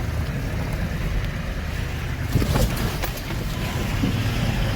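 A 4WD's engine running at low revs as it crawls along a rough off-road track, with a couple of sharp knocks a little past halfway.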